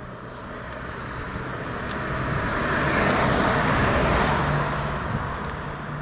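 A car passing on the road, its tyre and engine noise swelling to a peak about halfway through and then fading away.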